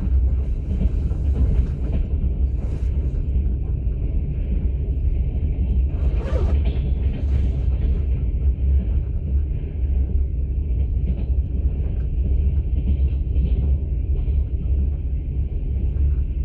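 Steady low rumble of a moving passenger train heard from inside an open-plan platzkart sleeper carriage. A brief louder rustle or knock cuts through about six seconds in.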